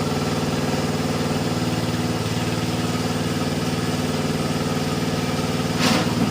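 An engine idling steadily with an even, fast beat, and a brief louder knock or rustle about six seconds in.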